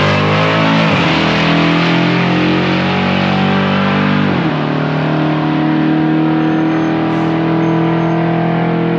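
A car engine running loudly and steadily, its pitch shifting about a second in and again around four and a half seconds.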